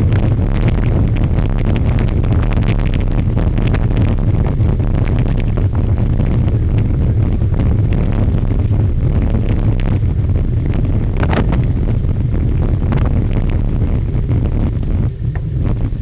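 Wind buffeting the microphone over a steady low rumble, with scattered clicks and rattles from a cyclocross bike being ridden over rough ground at race pace.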